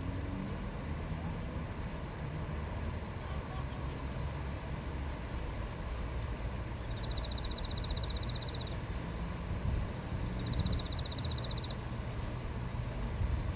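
River babbling: a steady rush of flowing water with a low rumble underneath. A high, rapid trill sounds twice in the second half, each about a second long.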